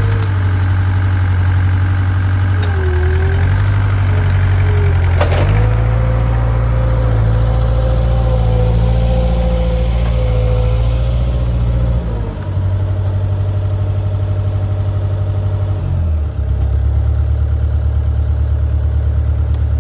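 Skid steer engine running hard under load while pushing logs, with a whine above it that wavers in pitch. A single sharp crack comes about five seconds in. The engine note drops about twelve seconds in and picks up again some four seconds later.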